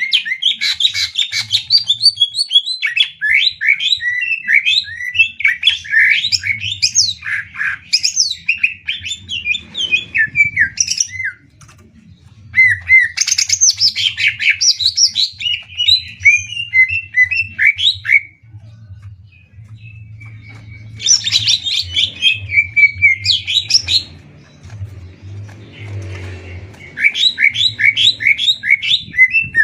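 Caged green leafbirds (cucak ijo) singing against each other in rapid-fire song: long phrases of fast, high chirps and whistled notes, broken by short pauses, over a faint low steady hum.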